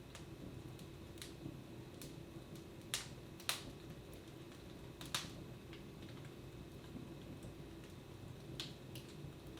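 Wood fire in a fireplace crackling: sharp, irregular pops and snaps, the loudest a few about three to five seconds in, over a faint low steady hum.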